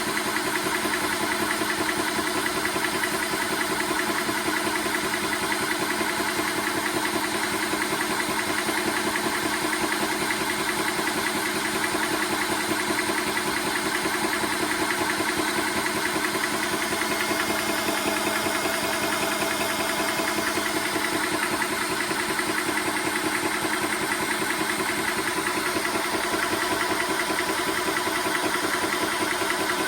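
TOAUTO A1X portable high-pressure air compressor running steadily, its piston pumping in a rapid, even pulse.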